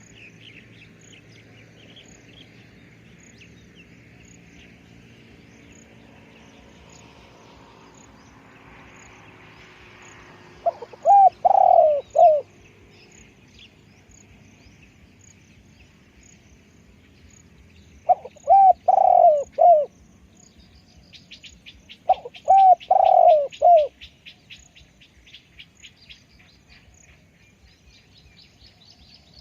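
Spotted dove cooing: three loud phrases of several low coo notes each, a few seconds apart. Small birds chirp faintly throughout, and a fast insect buzz starts after the second phrase.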